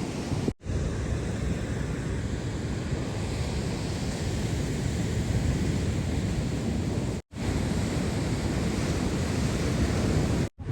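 Ocean surf washing, with wind buffeting the microphone, as one steady rush of noise. It drops out briefly three times.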